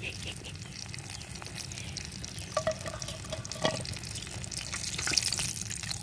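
Coated chicken pieces deep-frying in hot oil, a steady sizzle, with two short metallic clinks from a utensil in the middle as the finished pieces are lifted out. The sizzle swells louder near the end.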